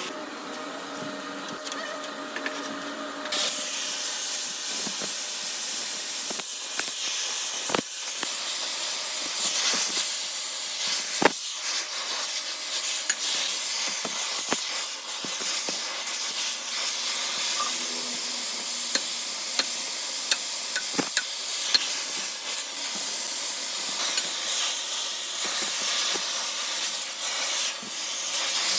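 Workshop machinery running: a low hum with steady tones, then a steady hiss that starts abruptly about three seconds in, with scattered clicks and knocks throughout.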